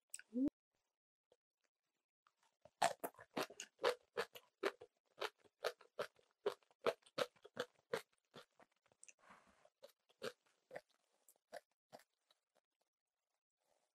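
Close-miked crunchy chewing of napa cabbage kimchi: a quick run of crisp crunches, about four a second, that starts a few seconds in and slows and thins out toward the end.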